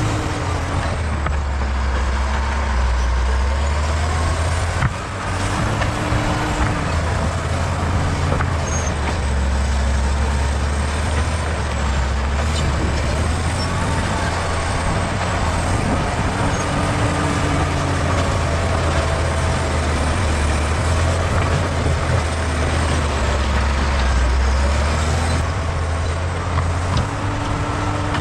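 Bulldozer's diesel engine running loud and steady under load, its note dipping and rising again several times as it works.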